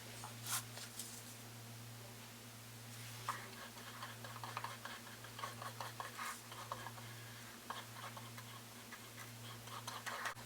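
Light scratching and scattered small clicks and taps, as of things being handled or worked at close range, over a steady low electrical hum.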